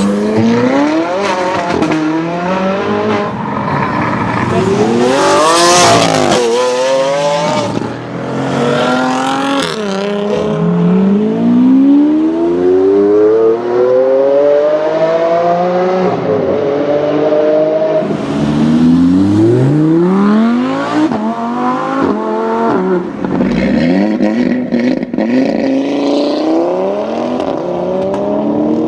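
Loud supercar engines revving and accelerating hard, the pitch climbing steeply through the gears, dropping at each shift and climbing again, over and over.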